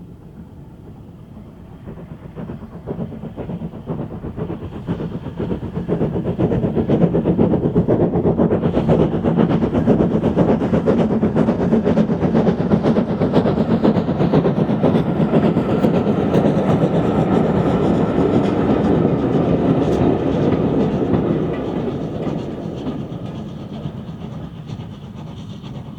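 Steam-hauled train approaching, passing close by with its carriage wheels clattering over the rail joints, then fading away as it goes.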